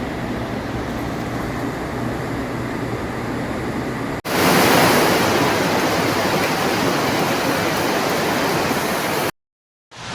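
Steady rushing noise of water. At a cut about four seconds in it changes to a louder, brighter rush, which stops dead for a short silence near the end.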